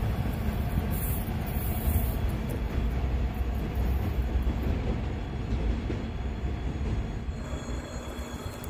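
A train rumbling along the rails, fading away about seven seconds in.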